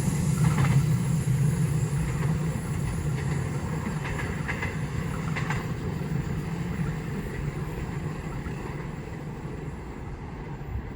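A long train's cars rolling past along the rails, a steady low rumble that slowly fades as it moves away.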